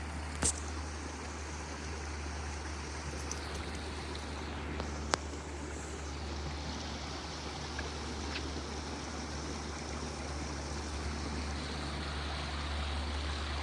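Steady rushing of flowing water, with two brief faint clicks.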